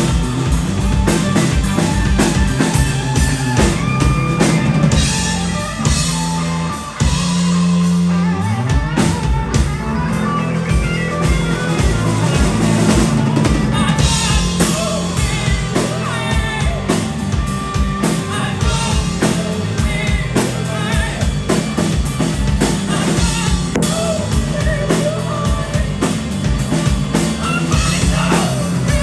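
Live rock band playing with drum kit, electric guitar and bass, with singing. About seven seconds in the drums drop out briefly under a held low note, and a rising bass slide leads the full band back in.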